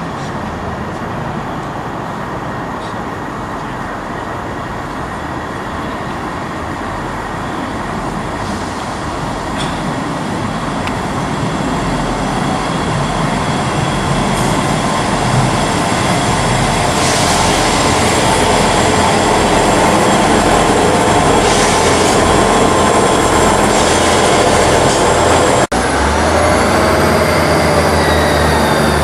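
A train running past on the line, its rolling noise growing steadily louder through the first half. Near the end the sound briefly drops out and gives way to a loud low hum with a steady whine of several tones.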